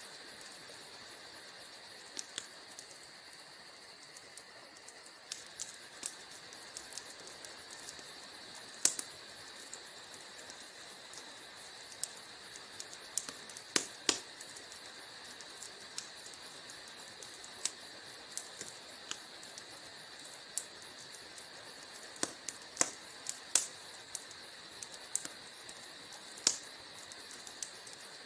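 Wood fire in a fireplace crackling: irregular sharp pops and snaps over a steady, faint hiss, with a few louder pops scattered through it.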